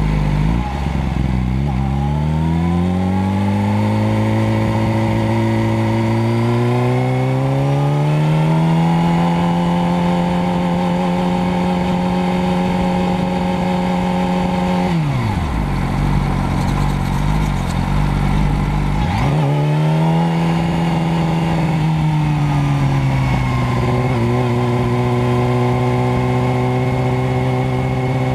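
Motorcycle engine running loud and steady. Its pitch climbs gradually over the first several seconds and holds, drops sharply about halfway through, rises again a few seconds later, and settles lower near the end.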